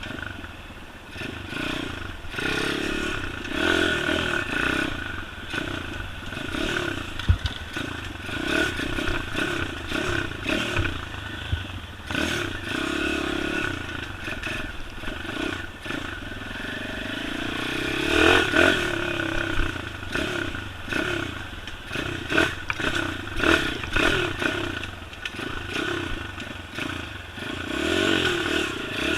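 Pit bike engine revving up and down over and over as it is ridden off-road, with scattered knocks and clattering from the bike over rough ground.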